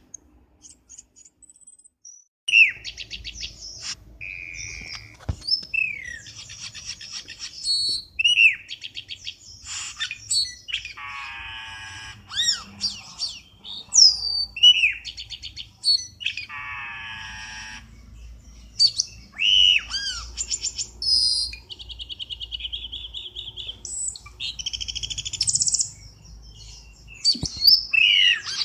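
Cucak keling bird song of the kind played as a lure call: a varied, fast-changing run of whistled notes that swoop up and down, sharp chips and buzzy chattering phrases, with short pauses between them. It starts about two and a half seconds in, over a faint low hum.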